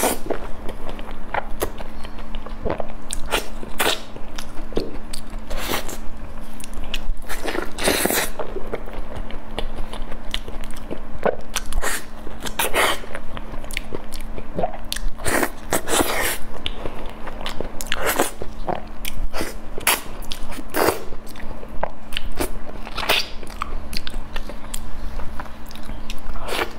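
Wet chewing and smacking of soft, creamy durian flesh, a run of irregular sticky mouth smacks.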